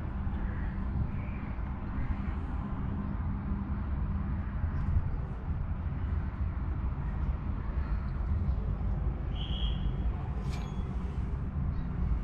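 Steady low rumble like a running vehicle, with a short high chirp about nine and a half seconds in and a sharp click just after.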